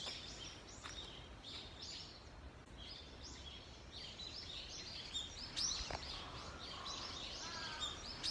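Small birds chirping over and over in short, high calls over a faint, steady outdoor background.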